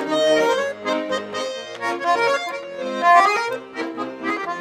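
Bayan (Russian button accordion) playing an instrumental interlude of a folk-style song: a melody in held notes over a bouncing bass-and-chord accompaniment.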